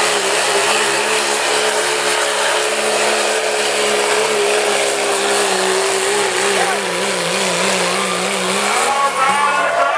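Dodge pickup's engine held at high, steady revs while pulling the weight sled, with a dense hiss over it. Its pitch wavers in the later part and drops near the end as the run winds down.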